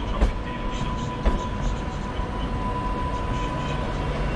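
Avanti West Coast train moving very slowly past at close range: a steady low rumble with a thin, steady whine, and two sharp knocks from the wheels, one just after the start and one about a second later.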